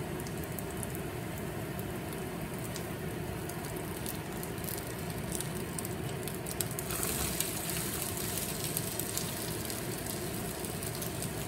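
Potato pancake frying in oil in a nonstick pan: a steady sizzle with scattered crackles. About seven seconds in, as the pancake is flipped onto its uncooked side, the sizzle grows louder and brighter.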